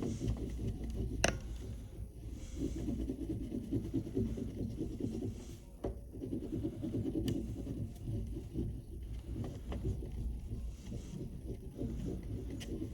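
Oil pastel rubbing and scraping over paper in repeated drawing strokes, with a few sharp clicks or taps.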